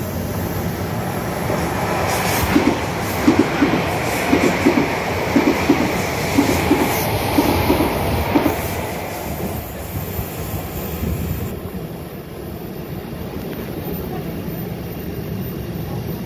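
ITX-Saemaeul electric multiple-unit train running through the station, its wheels knocking over rail joints in pairs about once a second as the cars pass. The rumble then fades as the train draws away.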